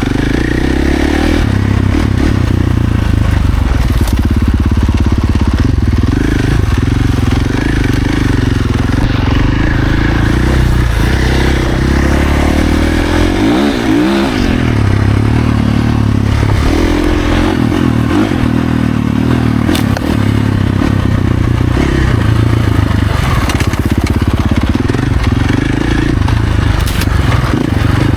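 Husqvarna FC450 dirt bike's 450 cc single-cylinder four-stroke engine running hard, its revs rising and falling with throttle and gear changes. There is a sharp drop and climb in revs about halfway through.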